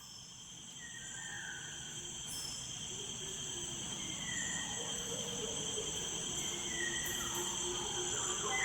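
Insects, crickets or cicadas, chirping in a steady high buzz, with a few faint short calls above it, and the background slowly growing louder.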